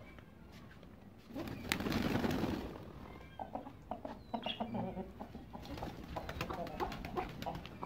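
Domestic birds: a loud burst of wing flapping about a second and a half in, then a run of short taps and brief soft calls.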